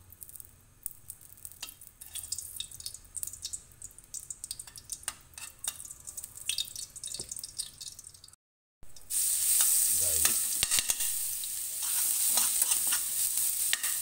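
Pork fat crackling and popping in a hot wok as it is rubbed around the pan. After a brief dropout about two-thirds of the way through, minced garlic frying in the rendered fat gives a loud, steady sizzle while being stirred with a spoon.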